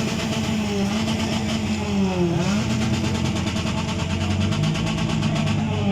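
Car engine running steadily, its pitch briefly dipping and climbing back about two seconds in.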